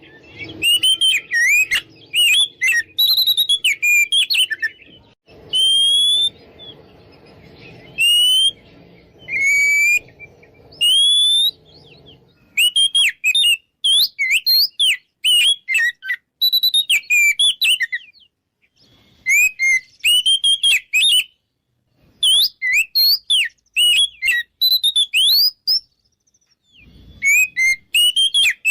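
Oriental magpie-robin singing loud, varied whistled phrases of rising, falling and warbling notes, in quick bursts with short pauses between them. This is the full 'ngeplong' song, a territorial challenge used to provoke a rival male into answering.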